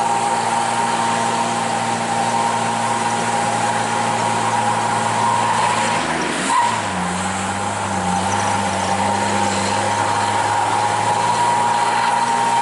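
Old truck's engine running hard under load, with a steady high whine over the engine note; about halfway through the pitch dips briefly, then the engine settles back to a steady pull.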